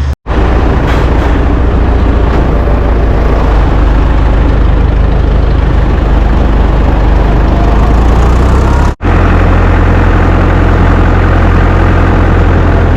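Heavy farm machine's engine running steadily and loudly. The sound cuts out abruptly twice, near the start and about nine seconds in, where the footage is cut, and the engine note is steadier after the second break.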